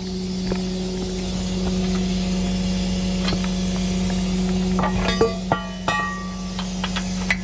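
Tow truck engine running with a steady hum. From about five seconds in, a string of sharp metal clinks and clanks, some ringing briefly, and one more near the end.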